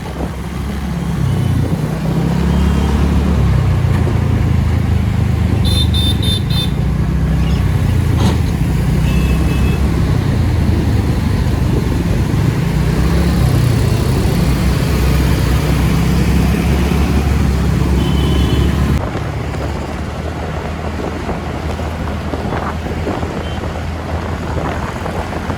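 TVS Ntorq 125 scooter's single-cylinder engine running while riding in traffic, its pitch rising and falling with the throttle, under wind rumble on the microphone. Short vehicle horn beeps come about six seconds in, again near ten seconds and near eighteen seconds. The whole sound drops in level about nineteen seconds in.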